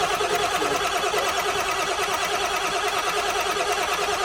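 7.3 diesel engine running steadily at idle just after a cold start, with an even, rapid pulse.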